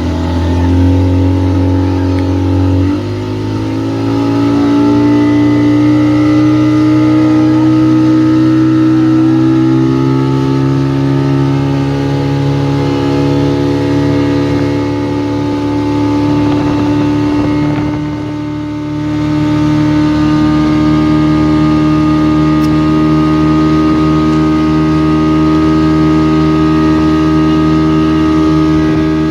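Motorboat engine running steadily. It picks up speed about three seconds in, its pitch creeping higher over the next several seconds, and eases off briefly about two-thirds of the way through.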